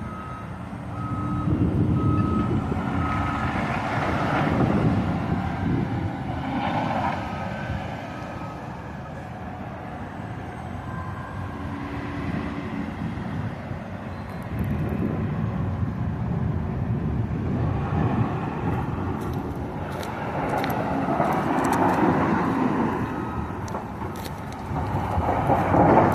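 Heavy construction machinery working: a backhoe's engine runs and revs up in long swells. A reversing alarm beeps evenly for the first several seconds, and faint clinks come near the end.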